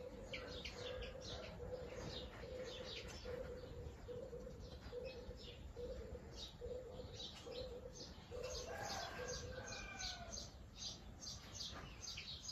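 Birds calling: a low note repeated about twice a second for most of the clip, stopping near the end, over a steady scatter of high chirps, with a few falling notes about nine seconds in.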